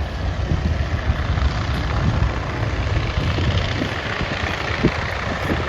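Steady low engine rumble with a broad rushing noise over it, holding even throughout.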